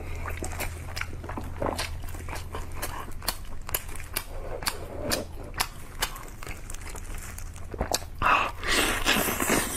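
Close-miked eating of braised chicken wings: wet chewing and mouth clicks throughout, with a louder bite into a wing about eight seconds in.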